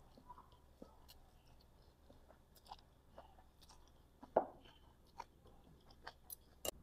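A person chewing food, with soft, wet mouth clicks and faint crunches. A sharper, louder click comes a little past four seconds in.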